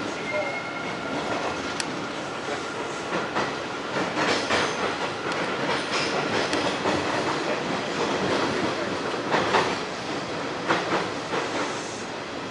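Hanshin 1000 series electric train running through an underground tunnel, heard from inside the front car. Steady wheel-and-rail running noise with a few sharp clacks over rail joints about four, nine and eleven seconds in, and a faint steady whine early on.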